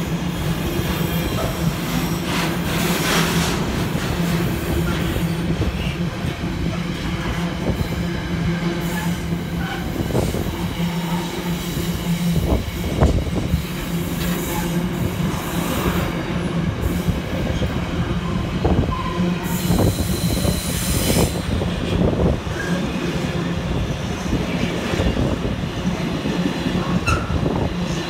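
Container wagons of a freight train rolling past at speed: a steady rumble of steel wheels on rail with repeated clicks as the wheelsets cross rail joints. Brief high-pitched wheel squeals about three seconds in and again around twenty seconds in.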